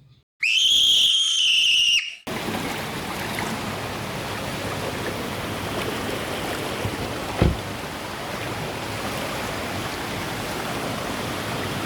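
A loud, steady high-pitched beep-like tone lasts about two seconds and cuts off suddenly. Then comes the steady rush of running water, with a single knock a few seconds later.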